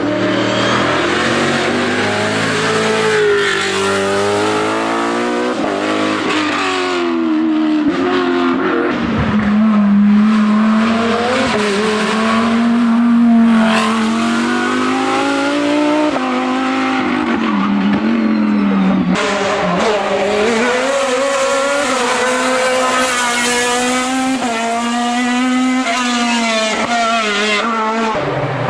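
Race car engine running at high revs, its pitch repeatedly climbing and then dropping back.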